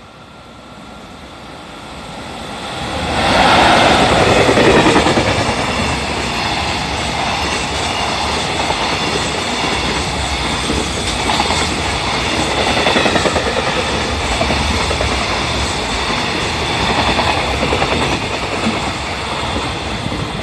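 EF65 electric locomotive hauling a container freight train passing through a station without stopping. The sound grows as the train approaches and is loudest as the locomotive goes by about three to four seconds in, then stays loud as a long string of container wagons rolls past on the rails, easing off near the end.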